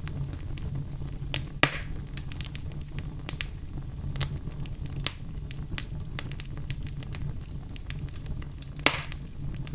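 Wood fire burning in a fireplace: irregular sharp crackles and pops of the logs over a steady low rumble of the flames, with two louder pops, one about a second and a half in and one near the end.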